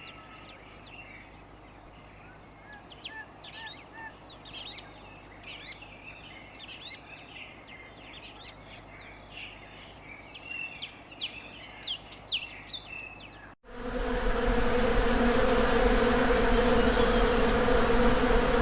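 Birds chirping over a faint outdoor background, then, about two-thirds of the way in, an abrupt switch to a loud, steady buzzing of bees.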